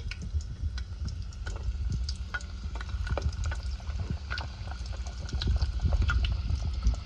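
Coated catfish fillets frying in hot oil, with a steady sizzle and many small irregular pops and crackles, over a steady low rumble.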